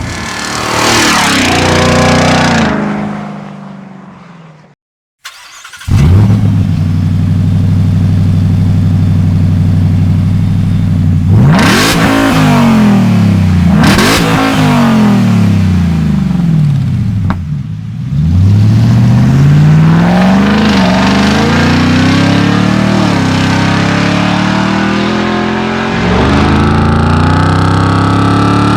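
Ford F-150 Raptor R's supercharged 5.2-litre V8 through a Borla aftermarket exhaust. A rev dies away, and after a short break the engine starts and idles. It is then blipped several times, the pitch swooping up and falling back each time, and near the end the pitch climbs steadily.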